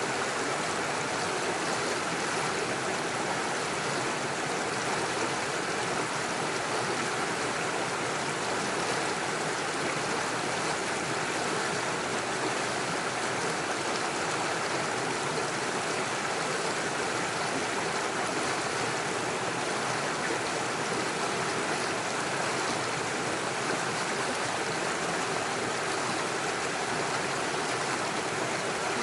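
Small mountain stream running steadily over stones and little waterfalls, an even rushing and splashing of water.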